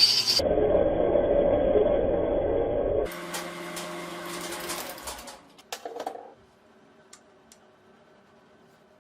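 A small power tool runs loudly for about three seconds, then more quietly for two more, followed by a few light clicks and taps before it falls quiet.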